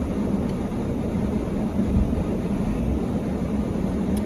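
Car engine running under load, a steady low rumble heard from inside the cabin, as the car tries to pull out of deep snow and stays stuck.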